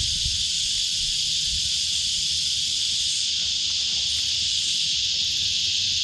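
Cicadas calling in a loud, steady chorus, a dense high-pitched hiss that does not let up, with a low rumble underneath.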